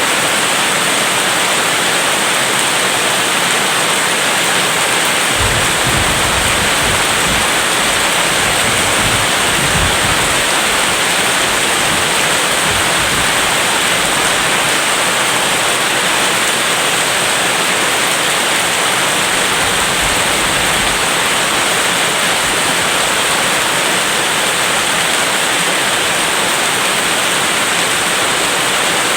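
Steady heavy rain, an even hiss throughout, with a low rumble of thunder rolling in about five seconds in and fading out about twenty seconds in.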